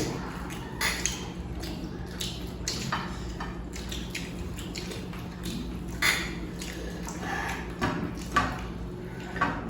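Eating sounds during a chicken biryani meal: scattered short clicks, taps and small knocks of food being eaten from plates, over a steady low hum.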